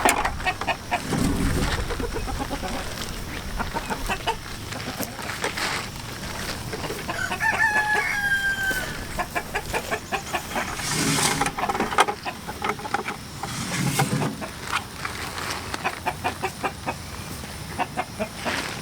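Flock of pastured chickens clucking in quick, repeated calls, with one longer drawn-out call about seven seconds in.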